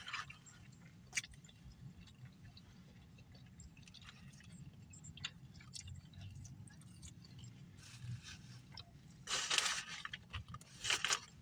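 A person chewing food with the mouth close to the microphone, with small clicks and crackles. A brief, louder rustle comes a little after nine seconds.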